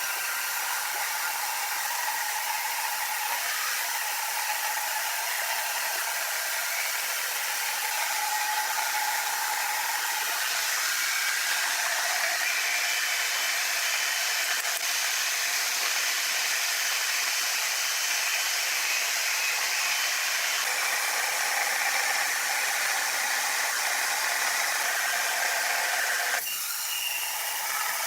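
Sawmill machinery running: a steady hissing noise with faint shifting whines, which changes abruptly near the end.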